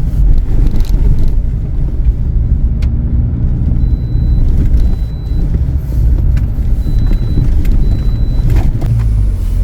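Car driving up a rough cement mountain road: a steady low engine and road rumble, with a few sharp knocks from bumps.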